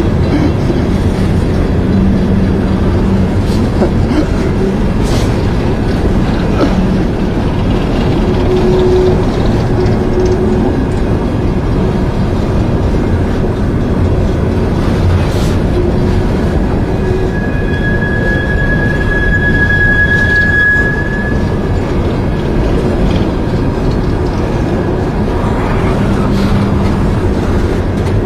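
Loaded coal hopper cars of a long freight train rolling past, a steady low rumble of wheels on rail with a few sharp clicks. About two-thirds of the way through, a high steady squeal rings out for about three seconds.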